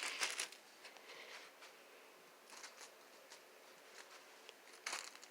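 Faint rustling and light scattered ticks, with a brief louder rustle at the start and another near the end.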